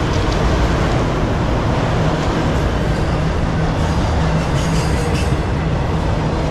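Train of empty autorack freight cars rolling past close by: a loud, steady rumble and clatter of steel wheels on the rails.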